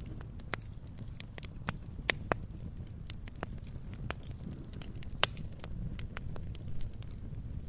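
Wood campfire crackling: irregular sharp pops and snaps, a few every second, over a low steady rumble of the burning fire, with one louder pop about five seconds in.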